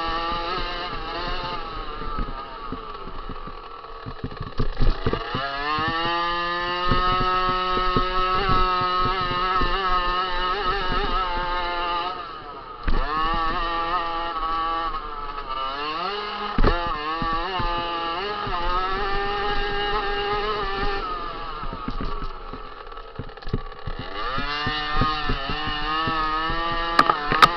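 50cc two-stroke motocross bike engine revving hard and easing off, its pitch climbing as it accelerates, again and again, with short drops off the throttle and a few sharp knocks.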